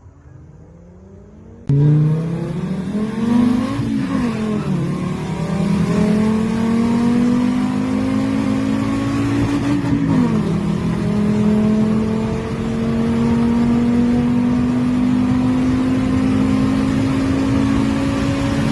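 Car engine accelerating hard through the gears. It starts abruptly about two seconds in. The revs climb, drop at an upshift about four seconds in and again about ten seconds in, then climb slowly again.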